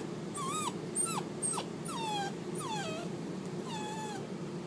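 A dog whining in high-pitched, whistle-like squeals, about six in a row, each bending or falling in pitch.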